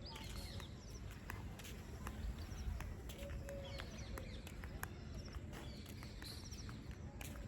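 Birds calling outdoors: short high chirps and little trills, with a few brief, lower steady notes repeating every few seconds. Scattered sharp ticks and a low rumbling background run underneath.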